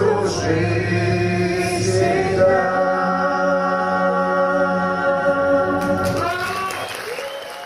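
Live song ending: a female soloist and a male choir sing a long held final note over the backing music. The music fades out near the end.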